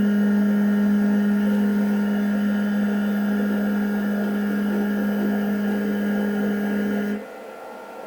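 Motor of a Uniformation Wash 3 Ultra wash station's build plate holder running with a steady, even-pitched hum as the holder moves into position, cutting off suddenly about seven seconds in; a small click follows near the end.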